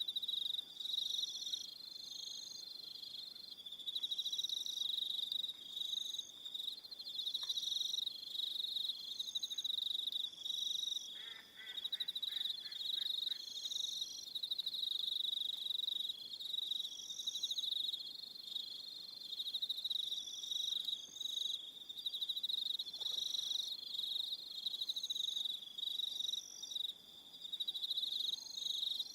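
A chorus of crickets chirping continuously, a steady high trill with shorter chirping phrases above it that start and stop every second or so. About 11 seconds in, another animal gives a brief call of about six lower pulses.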